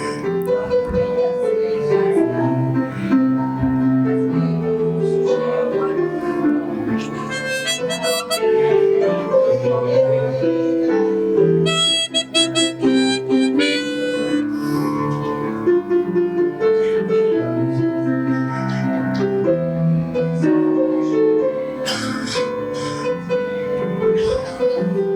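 Instrumental break in a festa junina song: a reedy melody instrument plays over keyboard chords, without singing.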